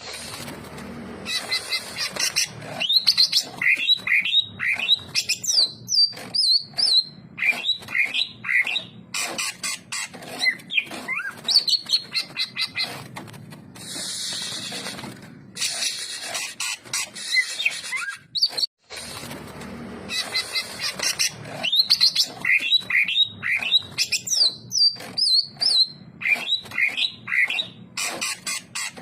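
Cucak ijo (green leafbird) singing continuously: fast, varied runs of whistled notes that glide up and down, with a brief break about two-thirds of the way through.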